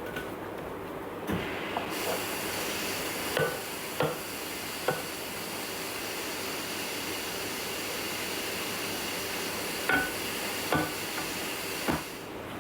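A steady hiss with a few sharp clinks of a utensil against a dish as sauce is mixed through chicken and vegetables. The hiss starts about a second in and stops just before the end.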